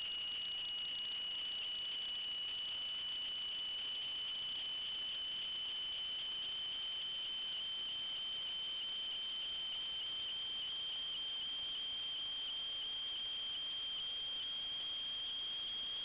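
A steady high-pitched electronic tone that creeps slightly upward in pitch, over a faint hiss.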